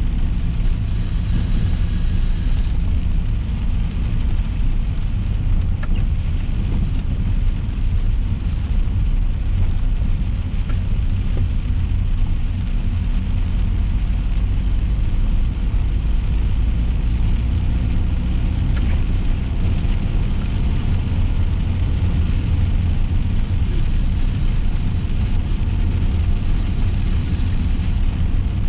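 Steady low road and engine rumble heard inside a moving car, with rain on the car's body.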